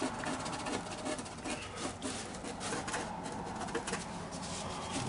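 Short, stiff bristle brush with its tip cut off scrubbing on watercolour paper: rapid scratchy rubbing strokes to soften and lift a painted edge.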